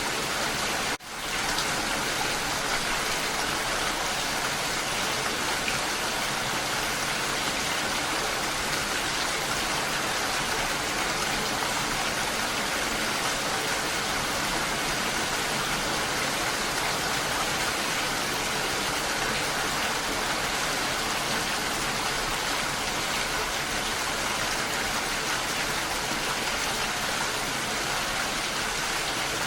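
Steady rain falling, a dense even patter with no other sound. It drops out briefly about a second in and swells back up at once.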